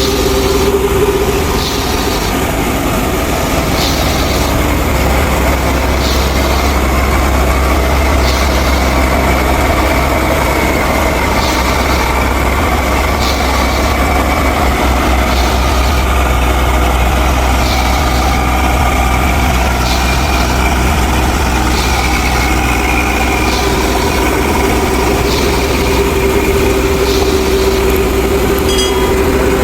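Mini tractor and its miniature thresher running steadily, with a constant low hum. A regular click comes about once a second, and a steady tone stands out near the start and again near the end.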